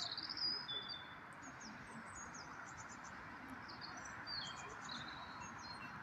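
Small birds chirping and singing, with high sharp whistles and quick trills coming and going, strongest in the first second and again around four seconds in, over a steady background hiss.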